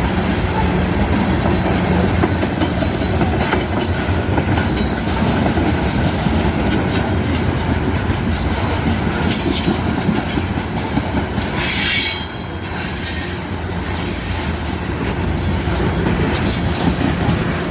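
Empty grain hopper cars of a freight train rolling past, steel wheels clacking over rail joints. About twelve seconds in, a brief high wheel squeal, after which the rolling sound gets quieter.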